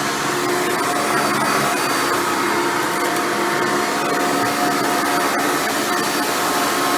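Hoover Futura Elite bagged upright vacuum running steadily while vacuuming, a constant motor whine with its single-row brush roll turning, and a few faint clicks.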